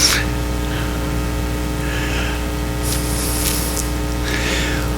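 Steady electrical mains hum with a buzz of many evenly spaced overtones, with a few faint hisses over it.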